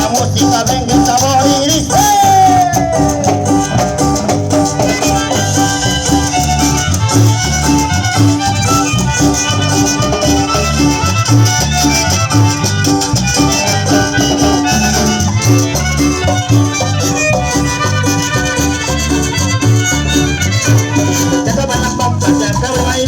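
Live chanchona band playing an instrumental cumbia: a melody line gliding over a steady, evenly repeating bass beat.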